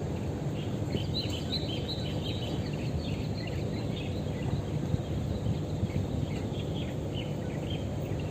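Outdoor ambience: many short, high chirps, like small birds, starting about a second in over a steady low rumble.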